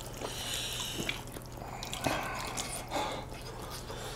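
Wet, close-up eating sounds: chewing and mouth noises of noodles in black bean sauce being eaten, with a few soft clicks.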